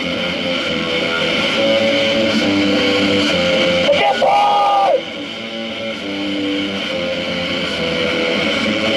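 Live noise-rock music with electric guitar and sustained droning notes. About four seconds in, a louder high held note comes in and cuts off sharply about a second later.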